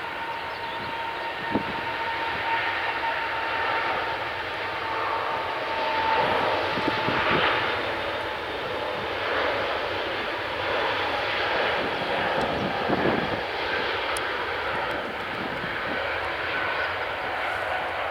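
Jet airliner engines running, a steady rushing noise with a high whine that fades about six seconds in; the noise swells slightly midway.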